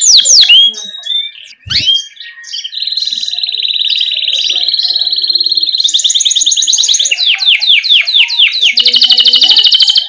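Domestic canary singing a long rolling song: runs of fast repeated sweeping chirps and rapid trills, the phrase changing every second or two, with a short break about a second in.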